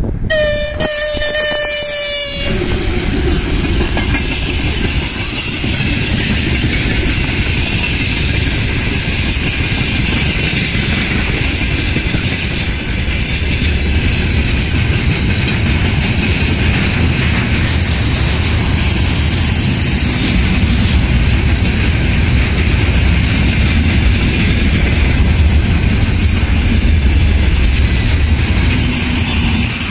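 A VL10u electric locomotive sounds its horn, one held tone for about two seconds at the start. Then its long freight train of steel-coil flatcars runs past, the wheels rolling over the rails in a steady, loud rumble.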